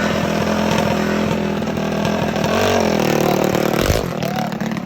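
Small mini bike engine running hard at high revs with a buzzy, chainsaw-like note. The pitch dips and climbs back about halfway through, and a sharp click about four seconds in is followed by a quieter stretch.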